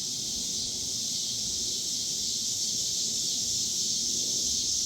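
Steady, high-pitched chorus of insects trilling, with a low rumble underneath.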